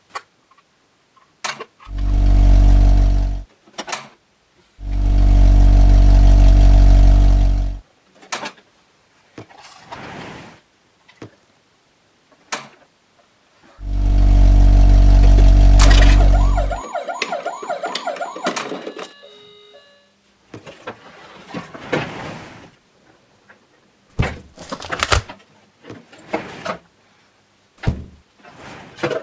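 Three blasts of a deep vehicle horn, a short one followed by two about three seconds long. After the last blast a brief warbling, siren-like tone sounds, then scattered clicks and knocks.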